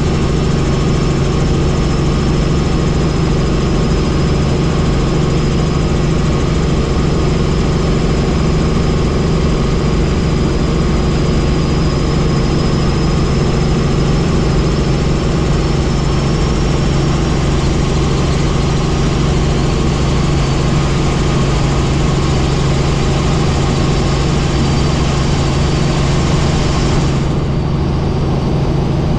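Helicopter in flight, heard from inside the cabin: a loud, steady engine and rotor drone with a thin high whine above it. A couple of seconds before the end the higher hiss dulls.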